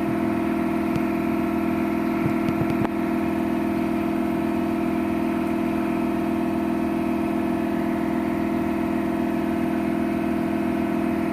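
Steady, unchanging hum of a running motor, with a few light clicks about two to three seconds in.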